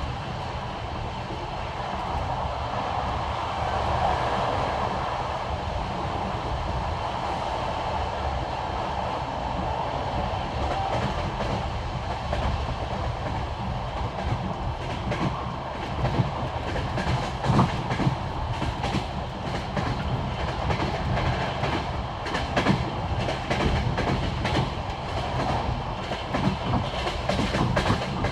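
Passenger train running at speed on jointed track: a steady rumble and rush of the carriage, with the wheels clacking over the rail joints. The clacks grow sharper and more frequent from about halfway.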